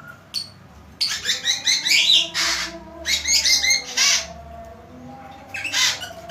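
A songbird singing vigorously: rapid strings of high chirping notes in two bursts, broken by short harsh rasping calls.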